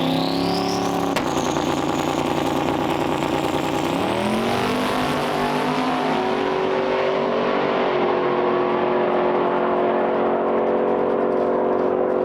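A car engine climbing in revs, rising again about four seconds in, then holding a steady drone.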